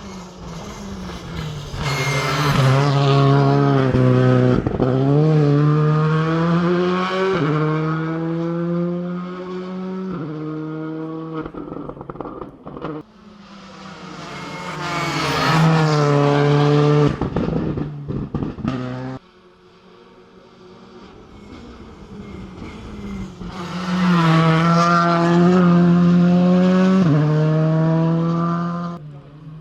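Rally car engines at full throttle, revving up and dropping in pitch at each gear change. There are three separate loud runs, one after another, and the second cuts off suddenly.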